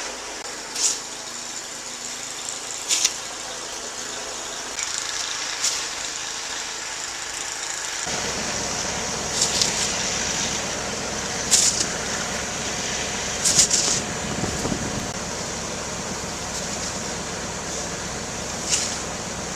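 A van's engine running steadily, with short hissing sounds every couple of seconds. The lower rumble grows fuller about eight seconds in.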